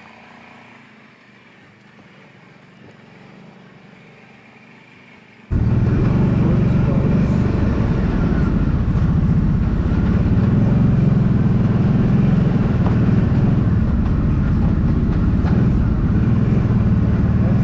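Kawasaki Brute Force 750 ATV's V-twin engine running under way on a trail, cutting in suddenly and loudly about five seconds in after a quiet stretch of faint hum.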